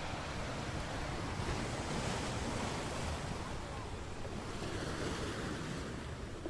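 Sea surf washing in a continuous rush, swelling a little about two seconds in and again near five seconds.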